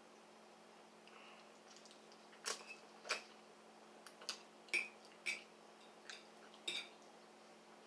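Eating sounds: a scattered run of about eight short, sharp clicks and smacks while spicy ramen is being eaten.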